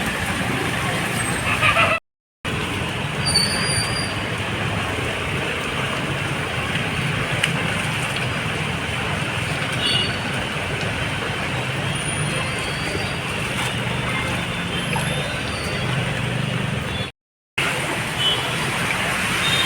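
Steady traffic noise from vehicle engines on a street, with a few faint high tones on top, broken twice by a brief dropout to silence.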